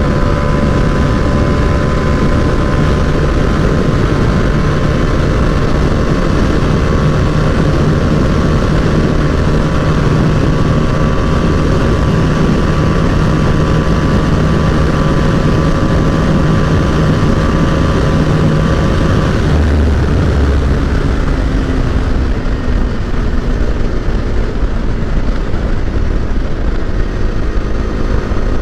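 Bajaj Dominar 250's single-cylinder engine running at a steady high speed with wind rush, its note held level. About twenty seconds in, the steady note drops away, and a lower engine note comes in near the end.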